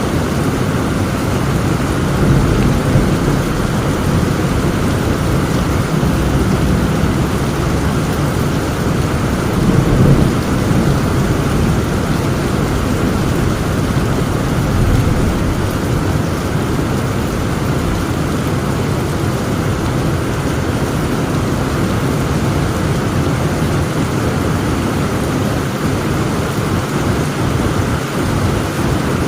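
Heavy rain falling steadily, with low rolls of thunder swelling several times, the loudest about ten seconds in.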